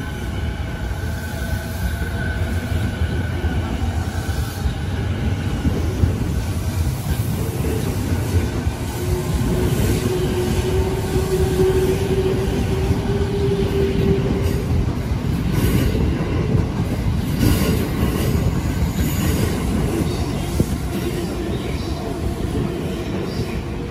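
Electric commuter train pulling out and picking up speed: the wheels rumble on the rails over a whine from the train, one tone of which holds steady for several seconds midway. A few sharp clacks come near the end.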